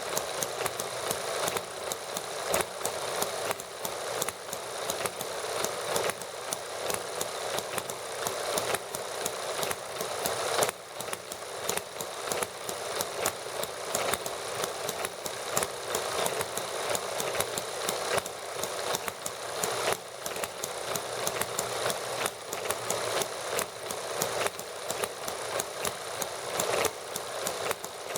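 Small model gasoline engines running steadily together, a rapid, even clatter of firing strokes and valve clicks.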